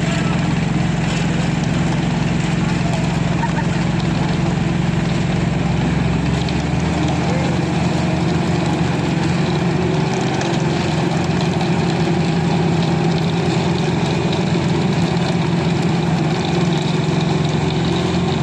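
A concrete mixer truck's diesel engine running steadily with an even hum; its deepest rumble falls away about six seconds in.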